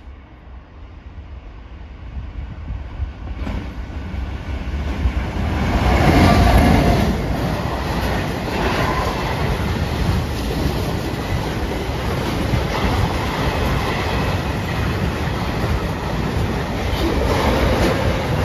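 Container freight train approaching and passing close by. It grows louder to its loudest about six seconds in as the locomotive goes by, then a steady rumble and clatter of the container wagons' wheels on the rails.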